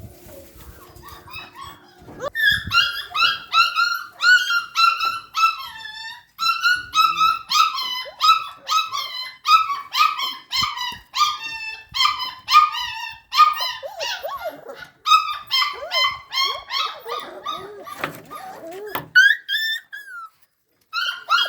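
Puppy whining and yelping: short, high-pitched cries repeated two to three times a second, starting about two seconds in and stopping shortly before the end.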